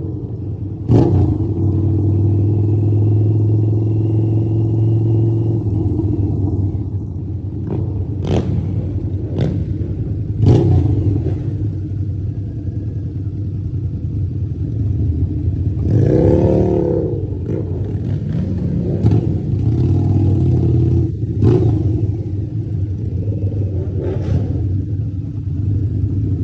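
Harley-Davidson motorcycle engine running, its revs rising and falling, with one rev about sixteen seconds in. Several sharp knocks sound over it.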